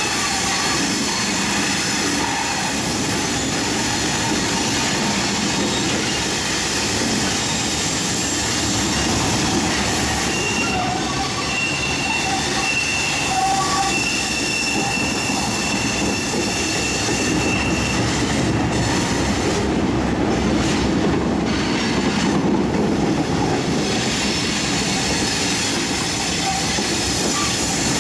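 Train cars rolling along the rails with a steady rumble of wheel noise; a high, thin wheel squeal comes and goes for several seconds through the middle.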